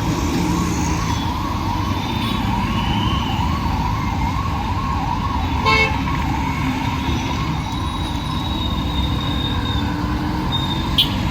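An emergency vehicle's siren wailing in quick rising-and-falling cycles over steady road traffic, fading out about halfway through. A short horn toot comes about six seconds in, and another near the end.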